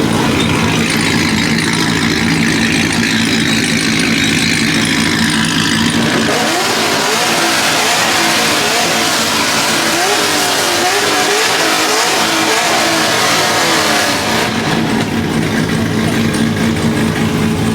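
Car engines at a car meet: a steady idling hum, with a louder stretch of about eight seconds in the middle where an engine is revved up and down repeatedly.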